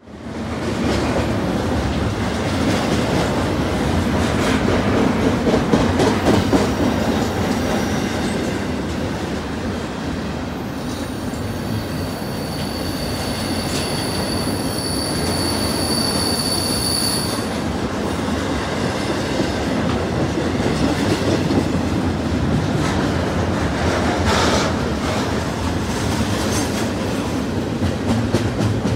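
Freight train of intermodal container cars rolling past: a steady rumble of steel wheels on rail with scattered clacks. About eleven seconds in, a high steady wheel squeal starts and holds for about six seconds before cutting off.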